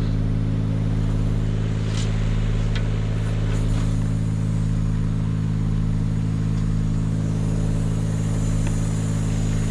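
Engine of an aerial lift running at a steady, unchanging speed, with a constant hum.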